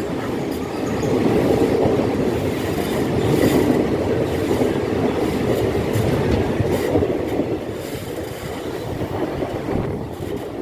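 Passenger train running on the rails: a steady rumble of wheels on track with scattered clicks from the rail joints, easing slightly near the end.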